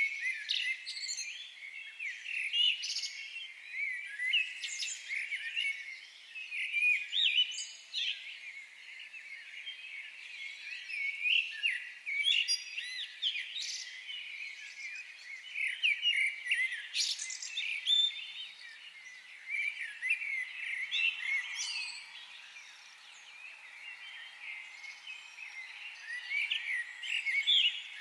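Several birds chirping and twittering in a forest chorus, many short high calls overlapping, over a faint steady hiss.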